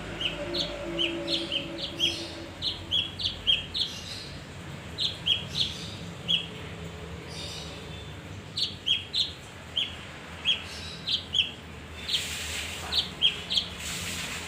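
Male kinoi songbird singing: repeated short, sharp high chirps in quick runs of several notes, with a brief pause midway.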